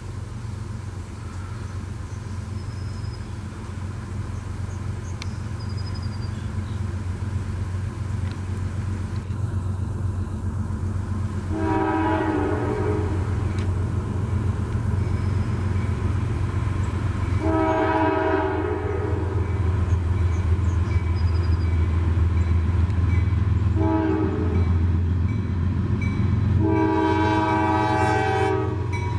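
Diesel freight locomotive approaching, its engine drone growing steadily louder, while it sounds its multi-chime air horn in a long, long, short, long pattern: the standard signal for a grade crossing.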